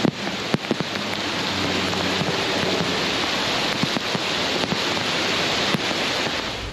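Heavy rain falling in a steady, dense hiss, with scattered sharp taps of drops striking nearby surfaces. It cuts off suddenly at the end.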